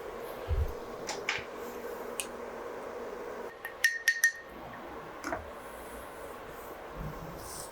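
Small hard objects handled on a workbench: scattered taps and knocks, with a quick cluster of sharp clinks about four seconds in, one of them ringing briefly. A steady low hum runs underneath.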